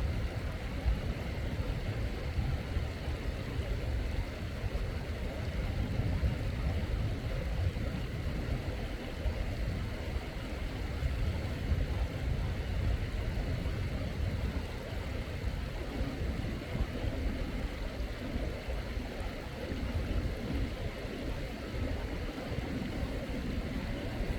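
Mountain stream water running: a steady, deep rushing noise with no breaks.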